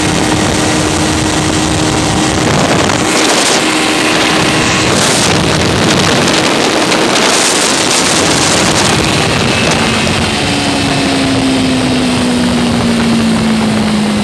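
Buggy's swapped-in Honda CBR600 inline-four engine running, with heavy wind noise on the microphone. Over the last few seconds its note falls steadily.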